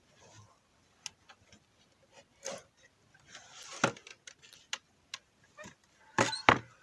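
Irregular clicks, knocks and rustling of things being handled, with two louder knocks about six seconds in.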